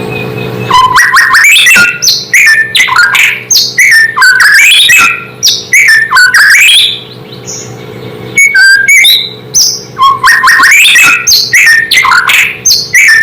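White-rumped shama (murai batu) singing loudly: a fast run of varied whistles, chirps and sweeping notes with a short break about two-thirds of the way through, over a faint steady low hum.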